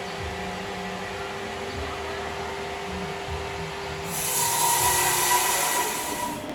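Sawing machine running with a steady hum, growing louder about four seconds in with a high hiss and a whine as the blade cuts into wood.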